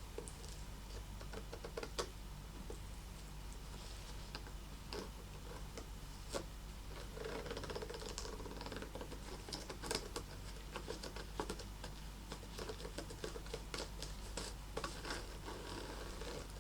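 Fingernails tapping and scratching on a handbag, a quick run of irregular small clicks and taps picked up close to the microphone.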